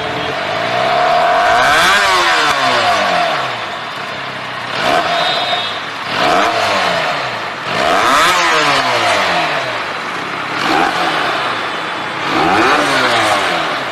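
Benelli 302R's 300 cc parallel-twin engine on its stock exhaust, revved repeatedly with the throttle blipped several times, the pitch climbing and falling back with each rev.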